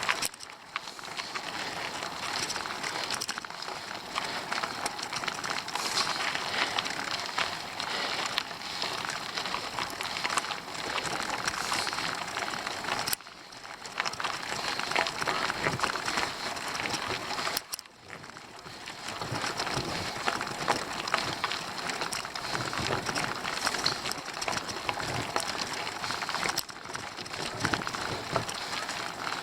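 Bicycle being ridden up a steep climb: a steady crackling, rattling noise of the tyres rolling on the road surface. The noise drops out briefly twice, once around a third of the way in and again a few seconds later.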